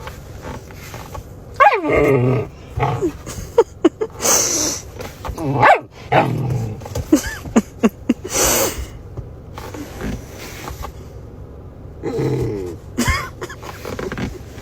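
A German Shepherd vocalizing in a string of bursts: whines and grumbling growls that slide up and down in pitch, with a few short, sharp barks or huffs in between.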